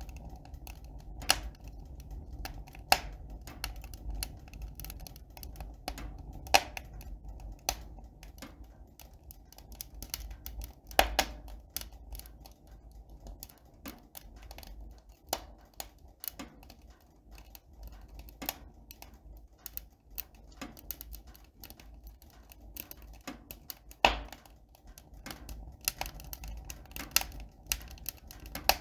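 Irregular sharp clicks and taps, several a second, with a few louder knocks among them.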